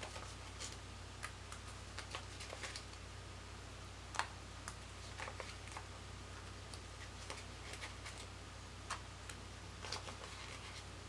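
Faint, scattered small clicks and light paper handling as planner stickers are peeled from their sheet and pressed onto a planner page, over a steady low hum.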